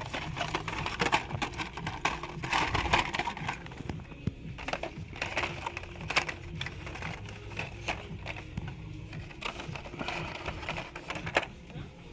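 Light clicks and crinkles of blister-packed die-cast toy cars being handled and flipped through on a store peg, over a steady low hum.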